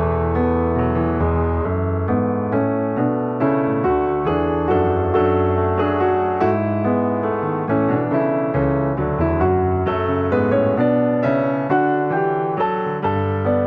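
Gentle background piano music, a steady run of notes with a soft bass line underneath.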